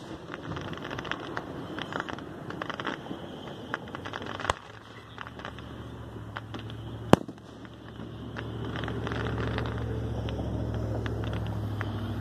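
Aerial fireworks: crackling from a burst at the start, then two sharp booms a few seconds apart. In the second half a steady low hum comes up underneath.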